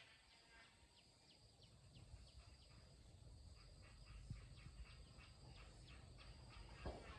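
Near silence: faint background noise with a run of soft, short chirps repeating about two to three times a second.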